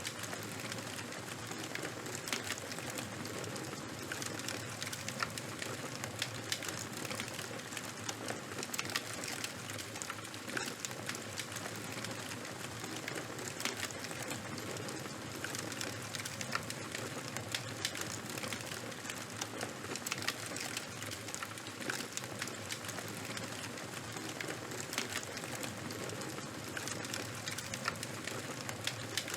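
Fire burning with a steady hiss and frequent irregular crackles and pops.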